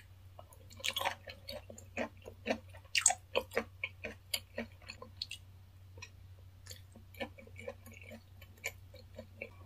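Close-miked chewing of raw fish sashimi: irregular wet mouth clicks and smacks, thick in the first half and thinning out toward the end.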